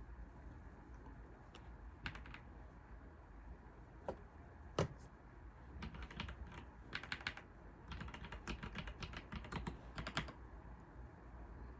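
Computer keyboard typing in bursts. A few scattered keystrokes come first, with one louder single key press just before the middle, then two runs of fast typing in the second half.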